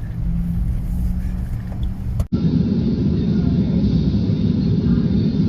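Low rumble of a vehicle moving through floodwater. About two seconds in it cuts abruptly to a louder, duller rumble.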